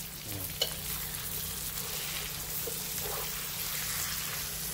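Food sizzling steadily as it fries in an aluminium wok. Near the end, a metal spatula stirs and scrapes against the pan.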